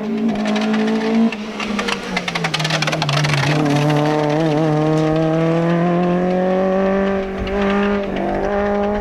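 Hillclimb race car engine: the engine note drops about a second in, with a burst of rapid crackling, then climbs steadily in pitch as the car accelerates.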